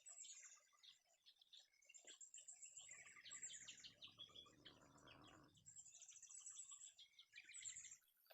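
Faint forest ambience of wild birds chirping and trilling in repeated high phrases, with a brief rush of broader noise about three seconds in.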